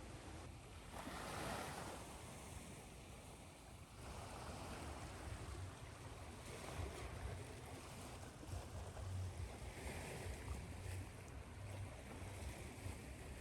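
Ocean waves washing in and receding over a steady white-noise hiss, one swell rising about a second in.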